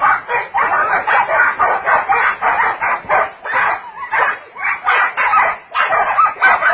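An animal calling over and over in quick, harsh calls, about three a second.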